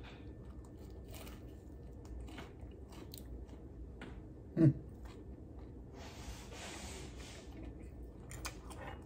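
A person chewing a bite of fried chicken tender close to the microphone, with many small clicks and crackles of the chewing. About halfway through comes a short low 'mm', and near the end a soft hiss lasting over a second.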